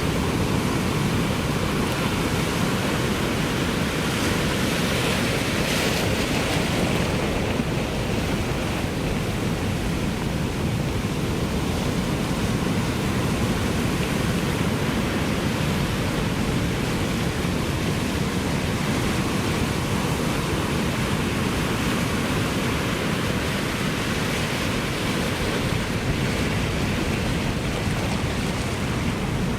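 Ocean surf: a steady, continuous rush of breaking and washing waves, with a brief swell of hiss about six seconds in.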